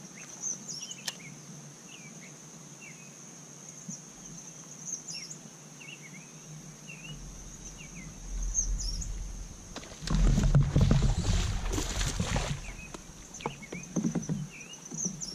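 Outdoor lake-shore ambience: birds chirping repeatedly over a steady high-pitched drone. From about eight seconds in a low rumbling noise builds, and it is loudest between ten and twelve seconds, with knocks in it.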